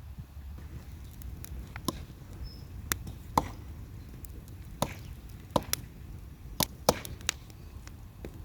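Chopping with a blade: about a dozen sharp, irregularly spaced knocks, a few of them with a short ring.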